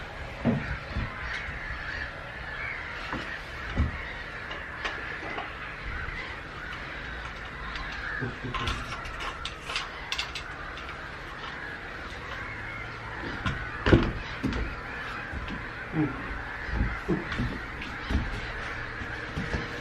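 A colony of black-headed gulls calling harshly and continuously, many birds at once. Close, short knocks and thumps come now and then, the loudest about two thirds of the way through.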